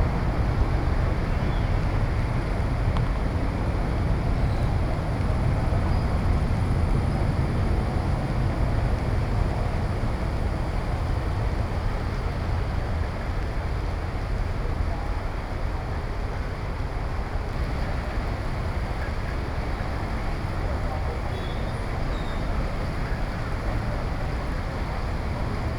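Steady rushing noise of heavy rain and strong wind, with a deep rumble of wind buffeting the microphone.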